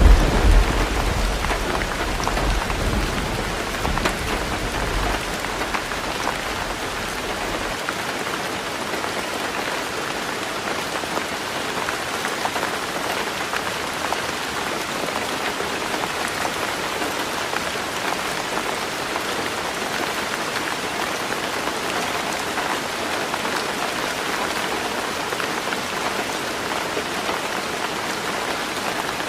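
Heavy rain drumming steadily on a tin roof, with a low thunder rumble dying away over the first several seconds.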